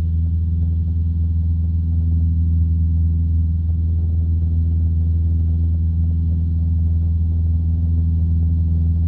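Steady drone of a single-engine piston light aircraft's engine and propeller in flight, heard from inside the cabin, holding an even pitch.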